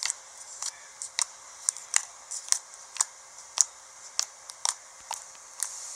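Activated slime being squished and stretched by hand, giving off short, sticky popping clicks at about two a second, irregularly spaced.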